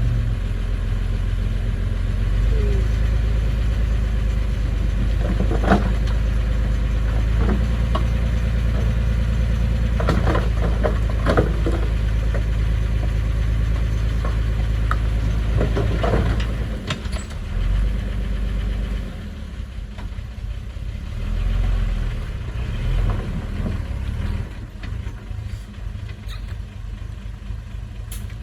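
Diesel engine of heavy construction machinery running with a steady low drone, broken by a few sharp knocks. About halfway through the drone drops in level and becomes uneven.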